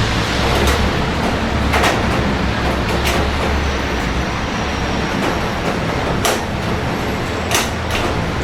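Steady heavy rain hiss over a low rumble of city traffic, with a few sharp ticks of drops striking something close by at irregular moments.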